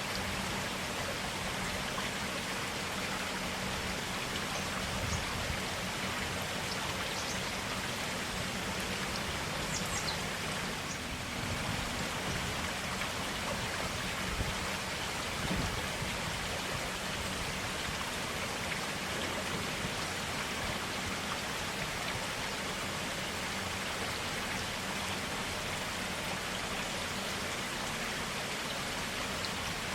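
A forest stream flowing steadily, an even rush of running water with faint, scattered drips and splashes.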